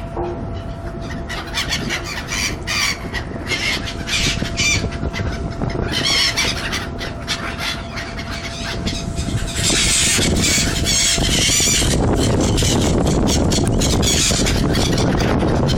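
Seagulls calling: a long run of short, high, repeated calls, busiest about two-thirds of the way through. A steady, louder rushing noise comes in around then and carries on.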